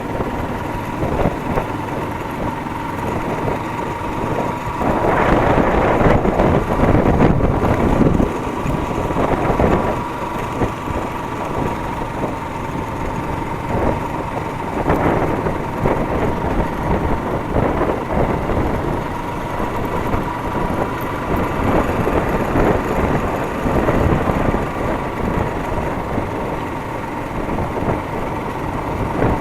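Motorcycle running while being ridden, with wind buffeting the microphone, getting louder for a few seconds about five seconds in.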